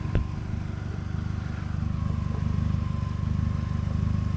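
An engine running steadily at idle, a low pulsing rumble, with one short knock just after the start.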